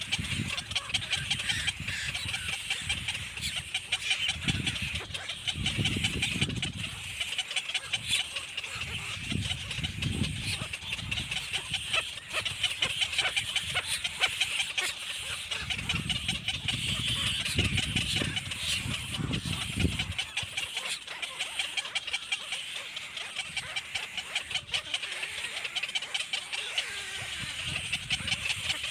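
Baby birds chirping rapidly and continuously in a high, dense chatter, with intermittent low rumbles underneath.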